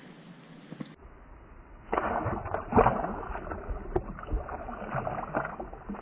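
Water splashing and sloshing around a kayak in irregular surges, with a few sharp knocks, getting louder about two seconds in.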